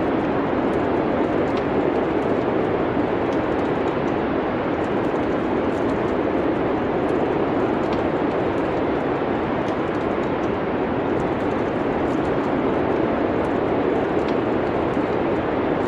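Steady wind-like rushing noise with the faint crackle of a wood fire ticking through it.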